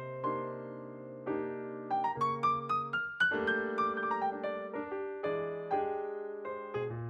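Background piano music: struck notes over a low bass, with a quick run of rising notes about two to three seconds in.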